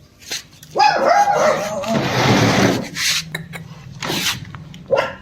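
Puppies whimpering and yelping in short, wavering high cries, followed by a loud scuffling noise and a few scattered clicks.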